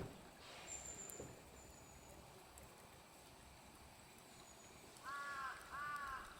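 A bird calls twice about five seconds in, two short harsh cawing calls, over a faint outdoor background; a single short click comes right at the start.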